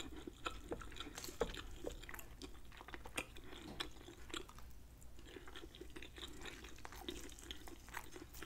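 Close-miked chewing of a roasted, honey-glazed chicken thigh: faint, irregular wet clicks and smacks of the mouth.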